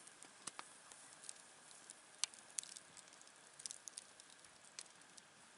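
Campfire crackling faintly: a soft hiss with scattered sharp pops and snaps from the burning wood, the loudest a little after two seconds in.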